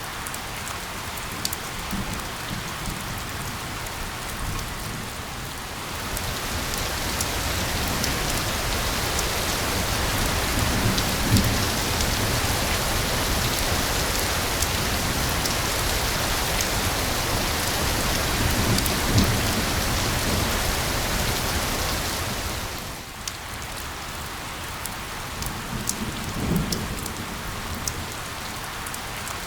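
Steady rain falling, with sharp drop hits scattered through it. The rain swells louder and heavier about six seconds in and eases back near the end, with a few brief low rumbles under it.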